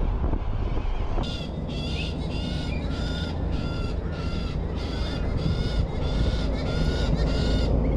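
A bird calling in a rapid series of short, harsh calls, about three a second, starting about a second in, over a steady low background rumble.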